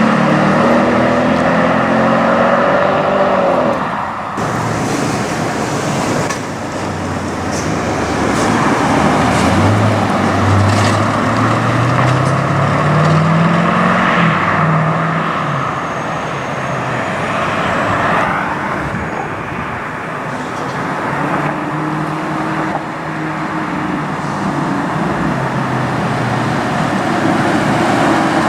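Audi RS6 cars accelerating away one after another with their engines revving. About ten seconds in, one engine's pitch climbs steadily for several seconds, then drops.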